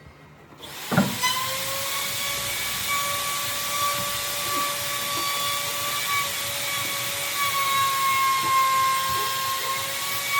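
An electric power tool starts just under a second in with a knock, then runs steadily with a high whine over a hiss, its pitch sagging slightly near the end as if under load.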